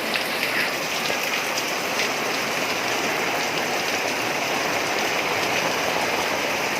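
Rain falling steadily, an even dense hiss of drops.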